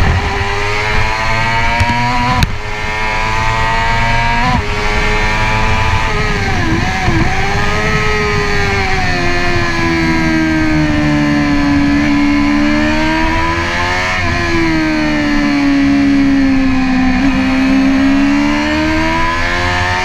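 Sport motorcycle engine heard from an onboard camera while lapping a race track: the engine note climbs and breaks twice early on as it shifts up, dips and wobbles around seven seconds with quick downshifts, then swells and falls with the throttle through the corners.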